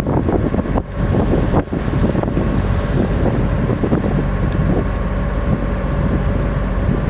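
A boat under way: a steady engine hum with wind buffeting the microphone.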